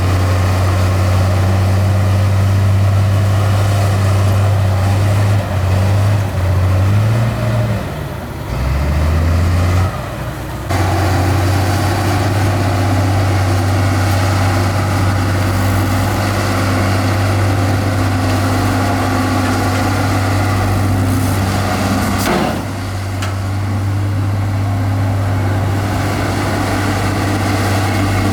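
Heavy diesel engine of earthmoving machinery running steadily. Its engine speed drops and picks up again several times between about five and eleven seconds in, and the level dips briefly about twenty-two seconds in.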